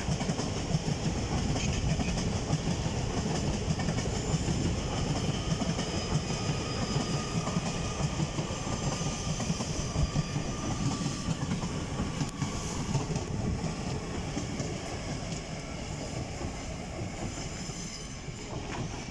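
Hitachi Class 801 Azuma electric multiple unit arriving, its wheels clattering steadily over the track, with a faint whine above. The sound eases slightly toward the end.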